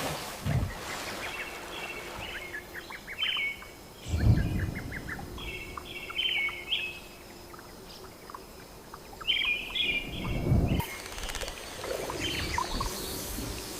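Forest ambience with birds chirping and twittering in short repeated bursts, over a faint hiss. Brief low rumbles come about four seconds in and again near ten seconds.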